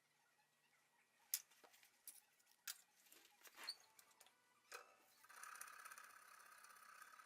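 A few scattered light clicks and taps, then a steady scratchy rubbing for about two seconds, from small hand work on the bench.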